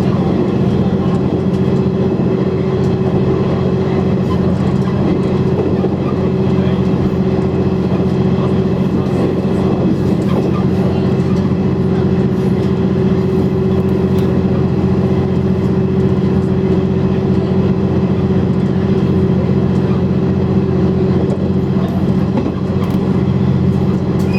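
KiHa 100 diesel railcar under way, its diesel engine running at a steady drone with several constant low tones over the rumble of the train running on the rails.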